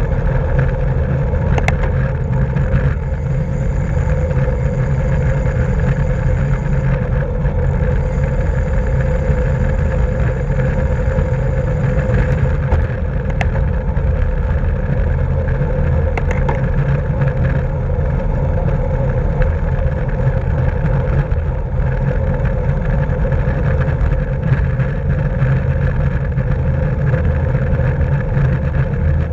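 Steady wind rumble and road noise on a camera riding with a road bike at racing speed.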